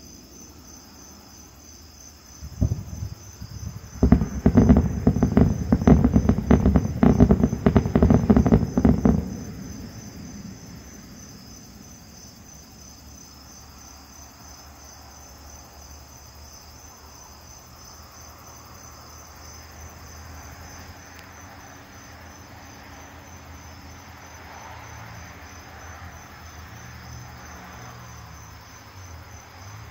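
Fireworks: one boom about two and a half seconds in, then a rapid barrage of booms and crackles for about five seconds that stops abruptly. Night insects trill steadily throughout.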